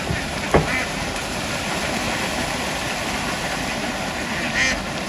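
A large flock of domestic ducks quacking together in a continuous din, with a sharp knock about half a second in.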